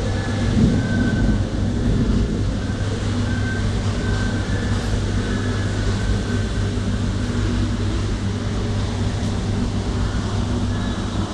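Storm wind blowing hard: a steady, loud rumbling roar with faint high whistles that come and go.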